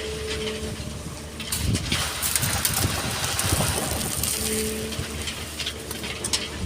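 Excavator diesel engine running with a steady hydraulic whine near the start and again later. About one and a half seconds in, a loud gritty rush with clattering stones lasts around two and a half seconds as the bucket moves a load of sand.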